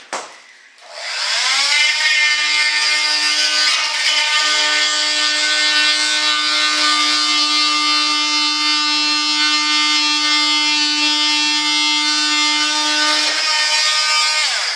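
A small electric power tool switched on, spinning up to a steady high whine and running for about eleven seconds, then winding down near the end.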